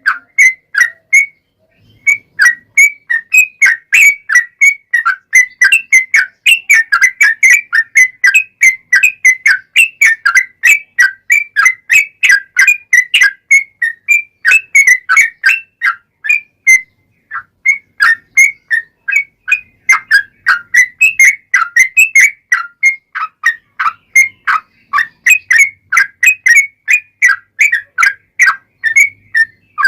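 Yellow-vented bulbul (trucukan) song: a long, rapid run of short whistled notes, about four a second, broken by two brief pauses.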